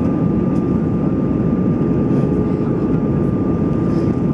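Steady roar of an Airbus A320-214's CFM56 turbofan engines and airflow, heard inside the passenger cabin, with a thin steady whine running through it.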